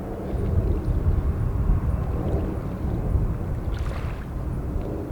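Gusty high wind buffeting the microphone, heard as a loud, uneven low rumble that swells and eases.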